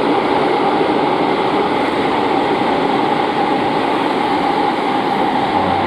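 A JR Central electric commuter train running through the station at speed without stopping: a loud, steady rush of wheel and motor noise with a steady whine.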